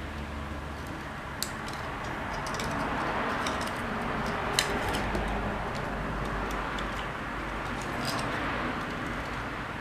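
Scattered small clicks and taps of small parts or tools being handled on a workbench over a steady hiss, two sharper clicks standing out about one and a half seconds and four and a half seconds in.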